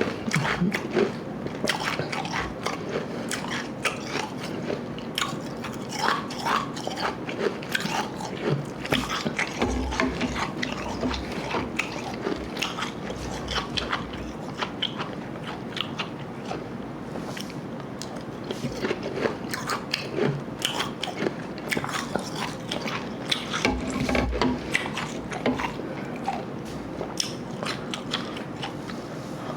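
Close-miked crunching and chewing of slush ice mixed with Igloo ice, a dense run of irregular crackles and crunches.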